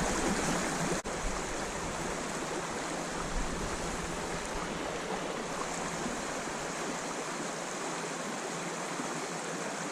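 Creek water flowing steadily over riffles, an even rushing noise, with a brief dropout about a second in.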